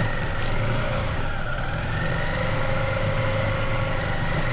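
Motorbike engine running steadily at low speed in first gear, its note easing off slightly and then picking back up.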